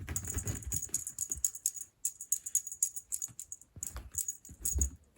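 A cat toy jingling and rattling in irregular shakes as a cat bats, bites and tugs at it, with a few soft thumps.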